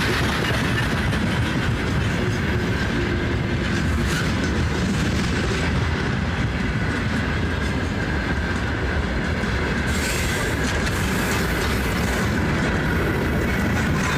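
Freight train wagons rolling past at close range, a steady rumble and clatter of wheels on the rails.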